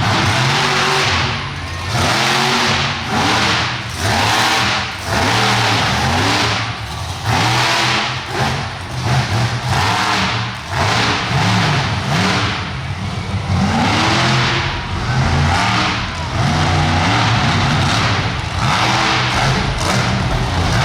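Monster truck engine revving hard over and over, its pitch climbing and dropping in quick swoops every second or so, loud throughout.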